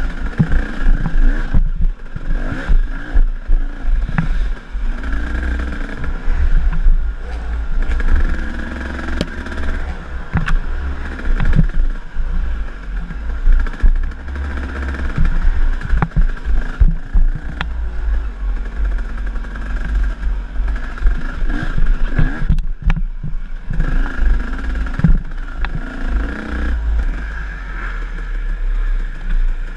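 KTM enduro dirt bike engine running on a trail ride, its pitch rising and falling as the throttle is worked. A heavy low rumble and frequent knocks and rattles run through it.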